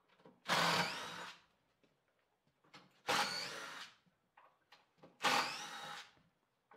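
A power drill-driver running in three short bursts of about a second each, a couple of seconds apart, each starting loud and tapering off. These are screws being backed out to take the top railing off a wooden ramp.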